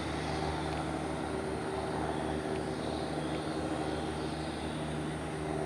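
Cessna 172's propeller-driven piston engine running steadily.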